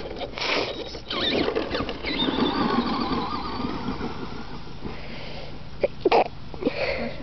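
Traxxas Stampede electric RC monster truck with a 15-turn brushed motor driving: a whining motor note that wavers in pitch with the throttle, over tyre and gear noise, for about four seconds. A few short sharp sounds follow near the end.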